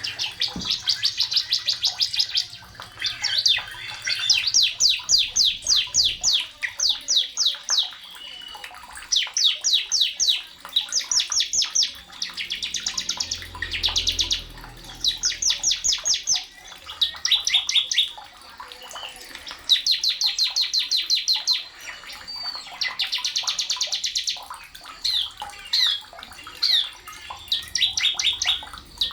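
Sogon bird singing: repeated bursts of fast, high trills, each phrase a rapid run of short, evenly spaced notes lasting a second or two, with brief pauses between phrases.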